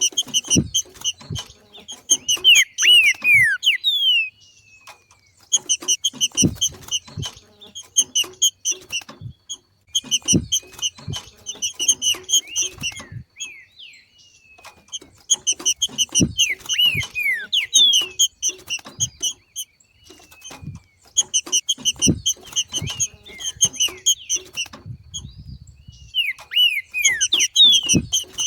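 Green-winged saltator (trinca-ferro) giving its 'macheado' chatter: repeated bursts of rapid, sharp notes mixed with short downward-sliding whistles, each burst lasting one to three seconds with brief pauses between.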